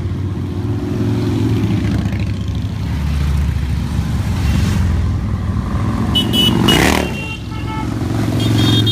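A steady stream of motorcycles passing in a continuous low engine rumble, with one bike swelling loud as it passes close about seven seconds in. Short horn toots sound from about six seconds in and again near the end.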